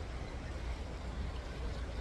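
River water rushing steadily, with a strong low rumble underneath.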